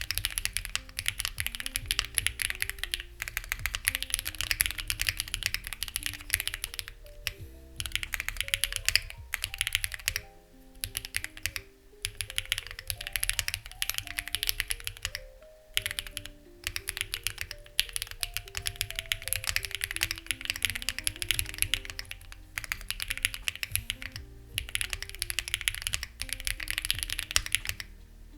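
Fast typing on a Lucky65 v2 mechanical keyboard with stock, unlubed HMX Ziwei switches: dense runs of keystrokes broken by short pauses every few seconds. Soft background music plays underneath.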